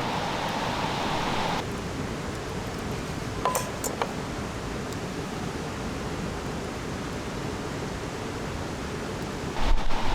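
Steady hiss that changes abruptly about one and a half seconds in, with two light clinks about three and a half and four seconds in.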